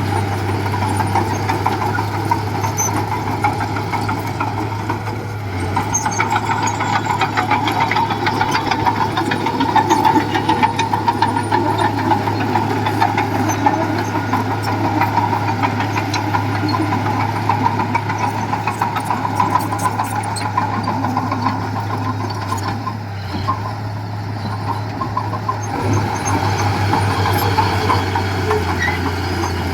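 Diesel engine of heavy earthmoving machinery running steadily: a low, even drone with a fine firing rhythm. The engine note shifts slightly a little before the end.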